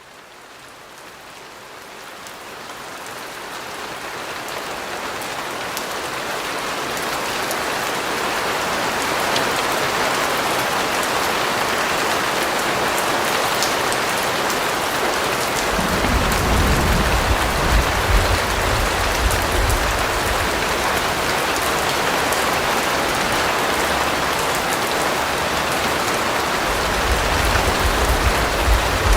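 Steady heavy rain falling, with fine drop patter, fading in over the first several seconds. A deep low rumble joins about halfway through and again near the end.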